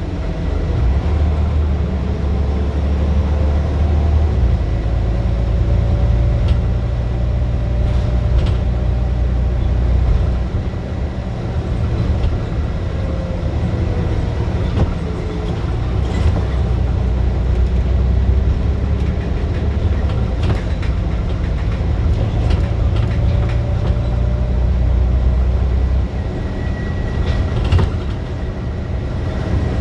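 Scania bus engine labouring hard under acceleration, a deep steady drone that eases off briefly at about ten seconds and again near the end before picking up. A faint transmission whine glides up and down with it, and sharp clicks and rattles come through now and then.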